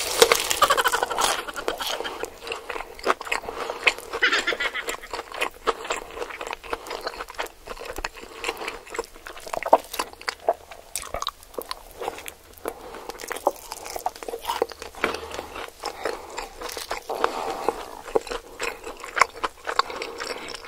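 Close-up chewing and crunching of raw green vegetable stems, a dense run of irregular crisp bites and mouth clicks.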